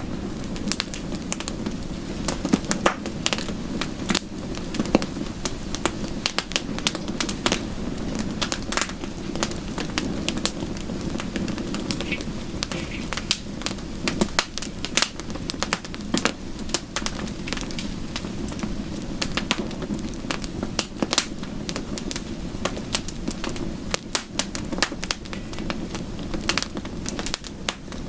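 Wood fire crackling, with many irregular sharp pops and snaps over a steady low rush of rain.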